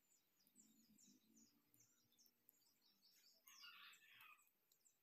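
Near silence: faint, repeated high chirps of small birds in the background, with a brief faint rustle about three and a half seconds in.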